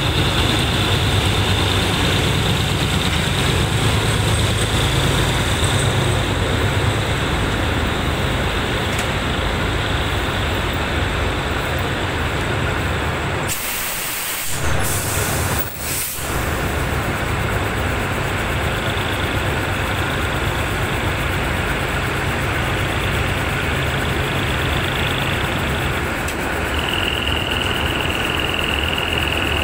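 A rake of passenger coaches hauled slowly out of a station platform by a diesel locomotive: a steady engine rumble and rolling noise, with a steady high-pitched whine that drops in pitch near the end. The sound briefly thins out about 14 seconds in.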